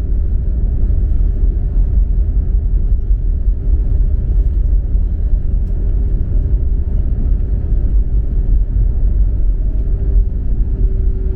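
Airliner cabin noise: a steady, loud low rumble from the engines and the wheels rolling as the plane moves on the ground after landing, with a faint steady hum on top.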